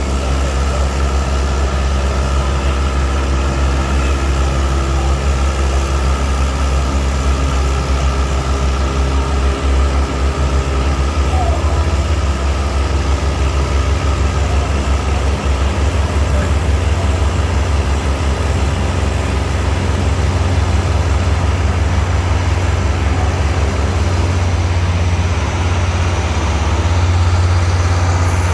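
Antique farm tractor engine running steadily with a low, even beat, a little louder near the end.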